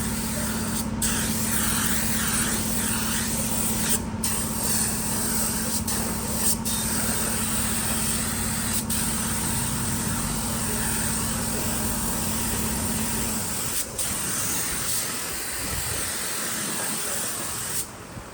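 Steady spraying hiss over a low, even motor hum; the hum stops about three-quarters of the way through while the hiss carries on, broken by a few brief clicks.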